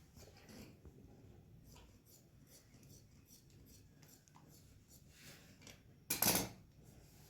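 Quiet handling noises, with soft rustles and small clicks, then one short, loud scraping rasp about six seconds in.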